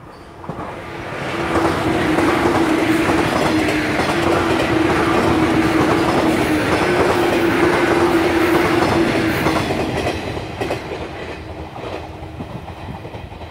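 A nine-car 115-series electric multiple unit passing close by, its wheels clattering over the rail joints with a steady hum under the clatter. It grows loud within the first two seconds, holds, and fades away after about ten seconds.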